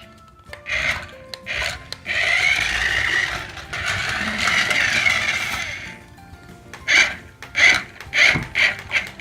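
Toy RC race car's small electric motor and plastic gears whirring in spurts as it drives, the longest for about four seconds, mixed with the car's built-in electronic music. Near the end comes a quick run of short, evenly spaced sound-effect pulses.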